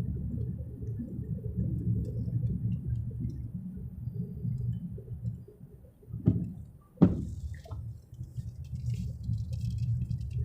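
Low, steady rumble inside a moving car, dropping away briefly a little past halfway. Two sharp knocks come about six and seven seconds in, the second the louder.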